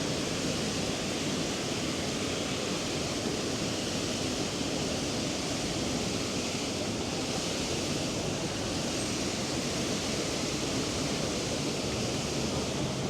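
Steady, even wash of busy city-street ambience: a dense crowd's voices and footsteps blended into a hiss-like din.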